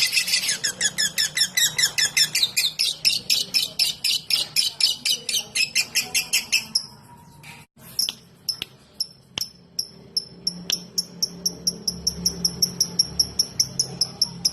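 Lovebird giving its rapid 'ngetik' ticking call: a fast string of sharp high chirps, about six a second, that breaks off about seven seconds in. After a few single clicks, a thinner, regular ticking resumes at about four a second.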